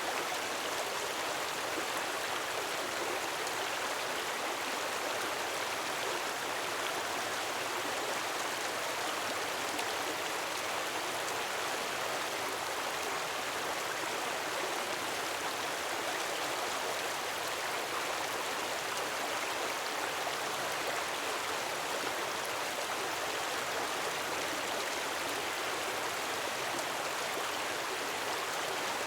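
Gentle waterfall splashing steadily into a pool, a continuous even rush of falling water.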